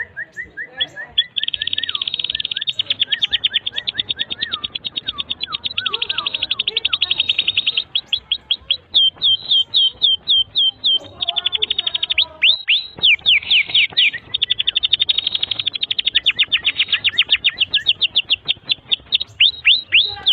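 Domestic canary singing a long unbroken song of rapid trills and rolls, with stretches of quick down-sweeping notes in the middle.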